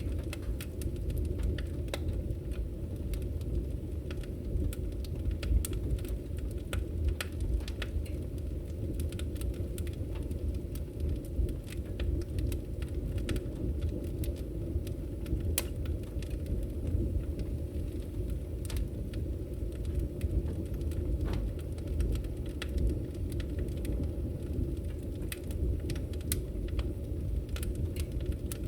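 Firewood burning: a steady low rumble of flames with irregular sharp crackles and pops from the wood.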